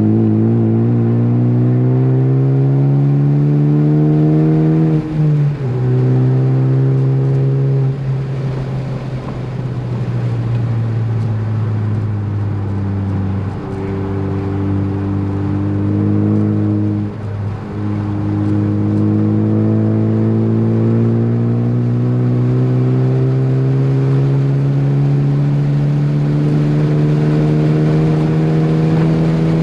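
Ford Focus ST's four-cylinder engine pulling hard at full throttle on track, its note climbing steadily. A quick gear change drops the pitch about five seconds in; the engine then eases off for a few seconds before pulling again, with a long climbing pull to the end.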